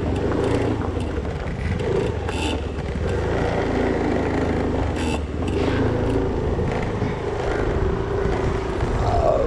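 Engine of a motorized two-wheeler running steadily while being ridden, its pitch wavering slightly with speed.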